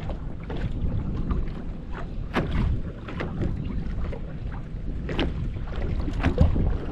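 Wind buffeting the microphone on an open boat, a steady low rumble, with scattered knocks and clicks, more of them in the last couple of seconds.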